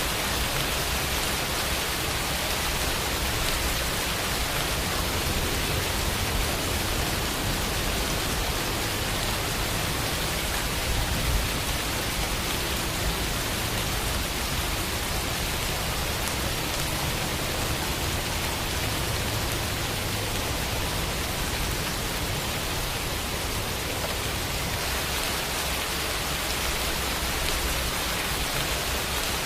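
Steady rainfall, an even, dense hiss of rain falling on surfaces with no other sounds.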